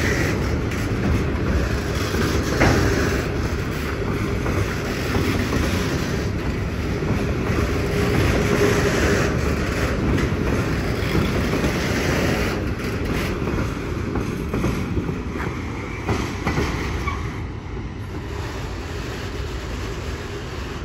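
Freight train wagons rolling past on the track: a steady rumble with irregular clicks of wheels over the rail joints, easing off near the end.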